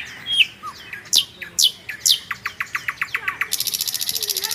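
Small birds calling: several high whistles sweeping downward, then a rapid run of short chirps that ends in a fast, buzzy trill.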